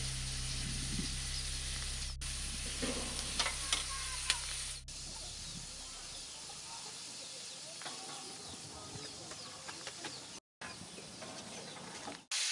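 Pork and liver pieces sizzling in a metal wok over a wood fire, with a few sharp clinks and scrapes of a metal spatula against the pan in the first half. The sizzle drops quieter about halfway through.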